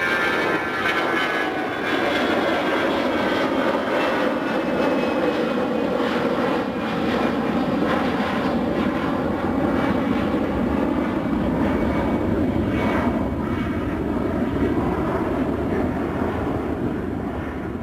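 Jet airliner passing close, its engines giving a falling whine over the first few seconds above a steady loud rumble that fades near the end.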